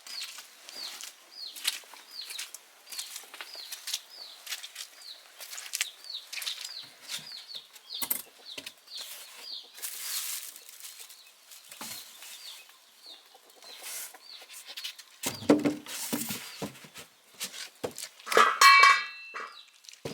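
Chickens: a run of short, high, falling peeps, about two a second. There are a few knocks and a rustle about three-quarters of the way through, and one louder, harsher call near the end.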